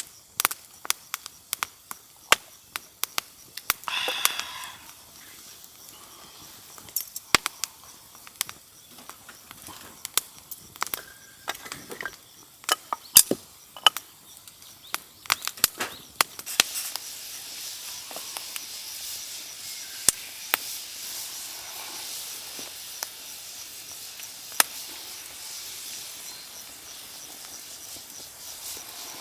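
Wood campfire crackling with irregular sharp pops. A steady hiss sets in about halfway through as the fire burns up.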